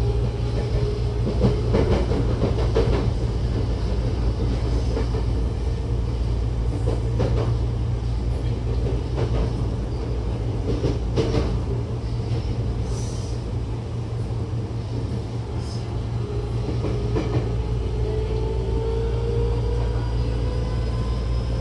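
Tokyo Metro 08 series electric train running, heard inside the car: a steady low rumble of wheels on rail with occasional clacks. Near the end, a whine from the Mitsubishi IGBT VVVF inverter and traction motors rises slowly in pitch.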